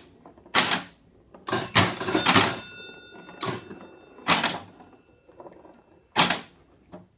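1952 Gottlieb Chinatown electromechanical pinball machine in play: a string of sharp mechanical clacks from the ball, flippers and playfield mechanisms, about eight spread over several seconds. About two seconds in, a bell rings once and dies away over the next few seconds.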